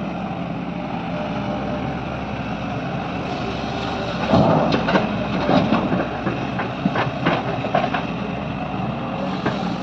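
Heavy construction machine's diesel engine running steadily. From about four seconds in, irregular metallic clanks and knocks join it.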